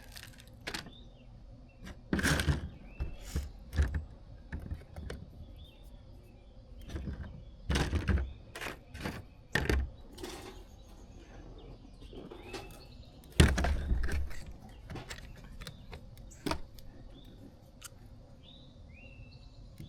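Irregular knocks, clacks and clatters of parts and tools being handled and set down on a workbench, in several bursts with quieter ticks between them.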